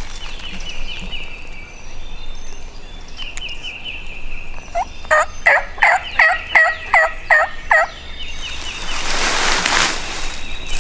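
Wild turkey calling: a run of about nine loud notes, about three a second, starting about five seconds in. A faint songbird trill comes before it, and a noisy rustle follows near the end.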